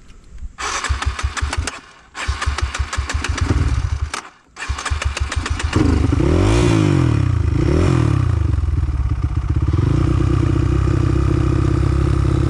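Trail motorcycle engine being started: three spells of cranking with short pauses between them, the engine catching about six seconds in. It is then revved up and down twice and settles into steady running.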